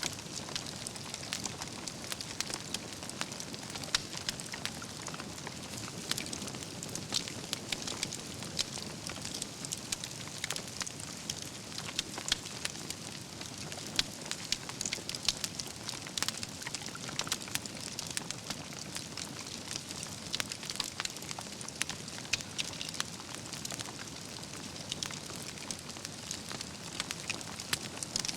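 Wood campfire burning: a steady hiss and rush of flame with frequent irregular crackles and sharp pops from the burning logs and embers.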